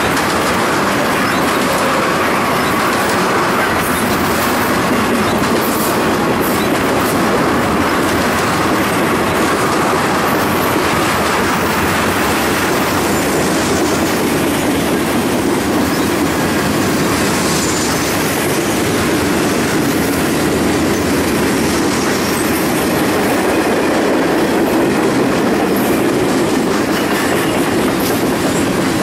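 Freight train cars rolling past: the tank cars and then open hopper cars make a steady, loud rumble of steel wheels on rail, with scattered clicks of the wheels over rail joints.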